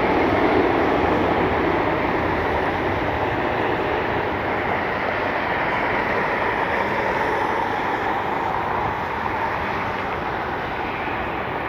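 Jet engines of a Boeing 767 freighter passing, a steady rushing noise that slowly fades as it moves away.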